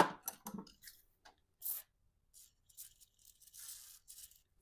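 Hands working radiator hose fittings on a Ford 6.7 Powerstroke's cooling system: a sharp knock, then scattered short clicks, scrapes and rustling as the hose connections are pulled and worked loose.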